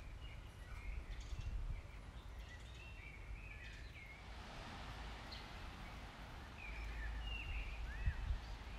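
Small birds chirping in short calls, a cluster in the first two seconds and another near the end. Under them runs a low rumble that grows heavier near the end.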